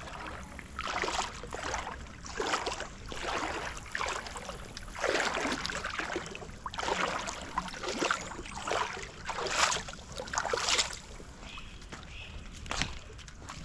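Footsteps wading through shallow creek water: irregular sloshing splashes, roughly one stride a second.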